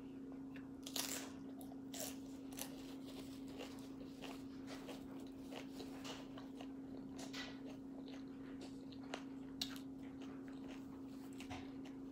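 Someone eating tortilla-chip nachos: a string of short, crisp crunches and chewing, loudest in the first few seconds, over a faint steady low hum.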